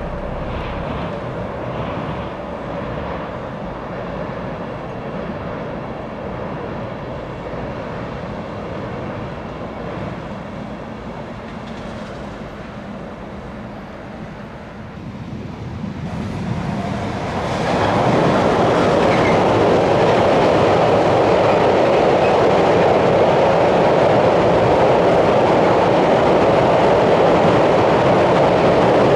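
Trains crossing a steel truss railway bridge: a distant passenger train running steadily at first, then, from about 17 s in, a closer freight train of loaded wagons, much louder and steady.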